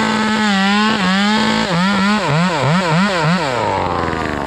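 Chainsaw running at full throttle with a high, steady whine. It then dips and rises about three times a second before dropping back to idle near the end.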